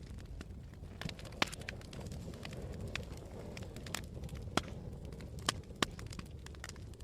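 Wood campfire burning: irregular sharp crackles and pops over a low rumble of flame and wind, with a few louder snaps about one and a half, four, four and a half and five and a half seconds in.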